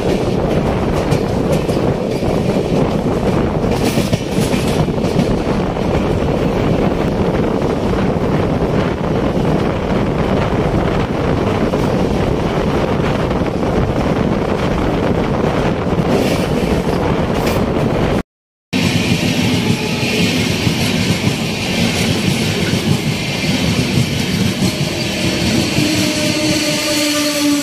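Express train running at speed, heard from an open coach door: a steady loud rush and rumble of wheels on rail and wind. After a sudden cut about two-thirds in, a train passes on the adjacent track, with faint tones that slide slowly lower.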